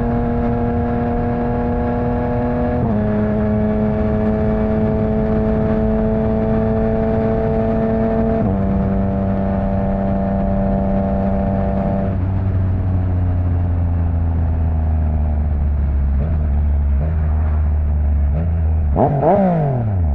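Yamaha MT-09's three-cylinder engine through an opened-up Akrapovic exhaust, running under steady throttle. Its pitch drops in steps about three, eight and twelve seconds in as it shifts up, then it eases off with a quick rev rise and fall near the end.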